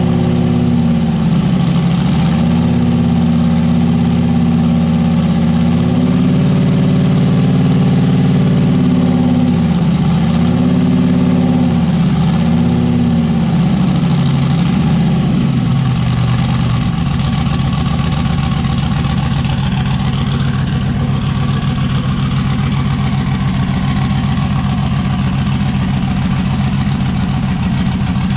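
Turbocharged LS V8 in a Chevrolet S10 truck running; the revs rise and fall several times, then it settles to a steady idle about halfway through.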